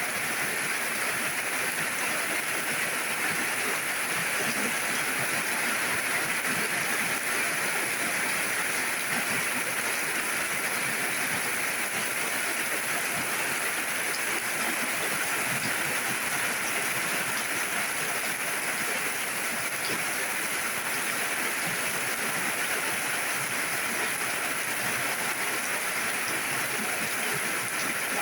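Steady rain falling: an even, unbroken hiss of water with no let-up.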